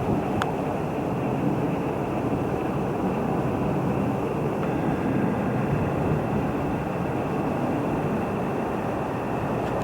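Train running through the station: a steady rumble of wheels on track with a faint constant whine above it, and a single sharp click about half a second in.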